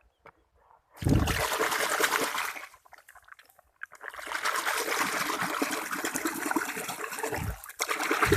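Water running and splashing over a muddy toy vehicle as it is washed, in spells: it starts about a second in, stops briefly, and runs again in a longer stretch with a short break near the end.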